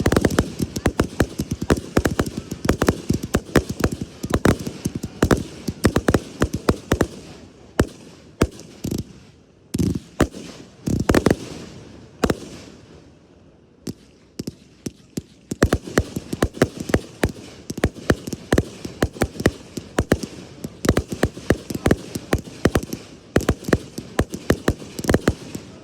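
Aerial fireworks bursting in rapid barrages of sharp bangs and crackles. From about a third of the way in they thin out to a few single booms, and about 16 seconds in a fast barrage starts up again.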